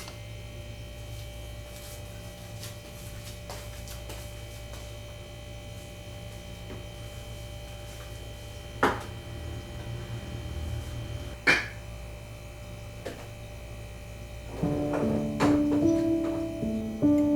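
Steady low hum of room tone with a few isolated sharp knocks. Background music with a melody of plucked or struck notes starts near the end.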